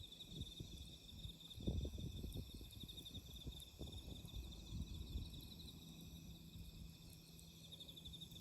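Crickets trilling steadily in a fast pulsing rhythm, with a low rumble rising and fading about two seconds in.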